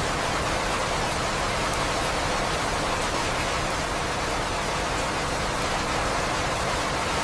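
Steady rain sound, an even hiss of falling rain with no distinct drops or thunder.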